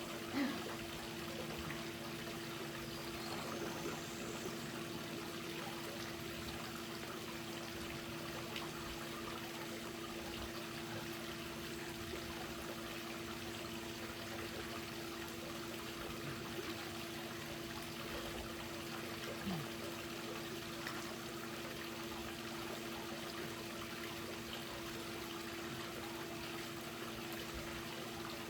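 Swimming-pool water trickling and lapping over a steady low hum, with one small knock about half a second in.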